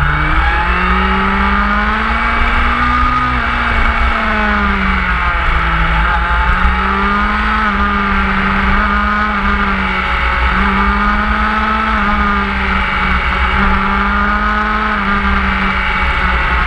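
Motorcycle engine running under way, its pitch rising and falling several times with throttle and gear changes, over a steady low rumble.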